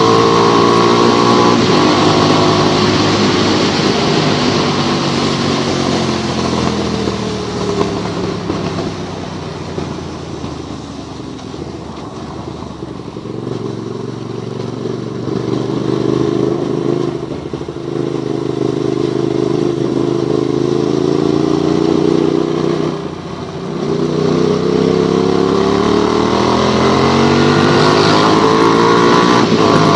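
Motorcycle engine while riding: it slows down over the first several seconds, then pulls away again, climbing in pitch with short drops at two gear changes. A steady hiss of wind and wet road runs underneath.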